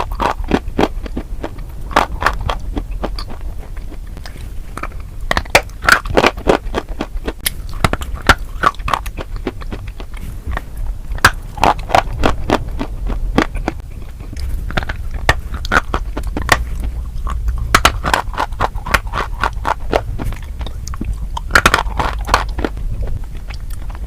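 Close-miked chewing of crunchy food: clusters of sharp crunches and crackles every second or two, over a steady low rumble.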